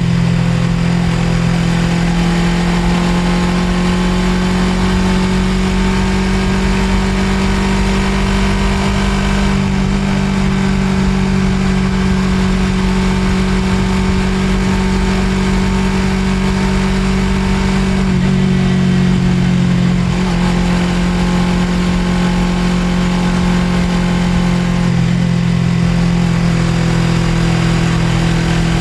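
Suzuki GSX250R's parallel-twin engine running steadily at cruising speed, heard from on the bike over a rush of wind and road noise. The engine pitch dips slightly about eighteen seconds in, then climbs back.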